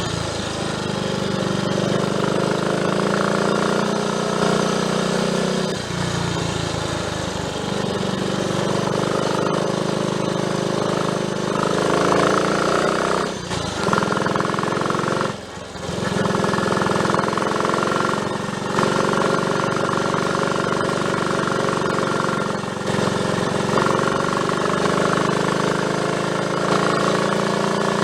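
A Triumph Tiger Cub's single-cylinder four-stroke engine running steadily. Its note changes and dips briefly a few times.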